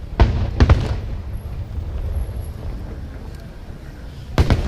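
Aerial fireworks shells bursting with deep booms: two close together near the start and two more near the end, over a steady low rumble.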